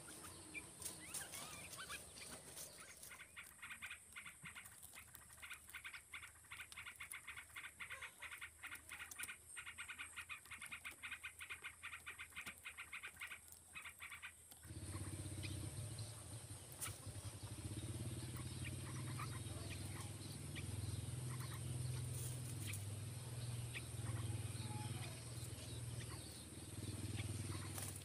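Small birds chirping outdoors: a fast run of chirps for the first half, over a steady high hiss. About halfway through, the sound cuts abruptly to a low rumble with only scattered chirps.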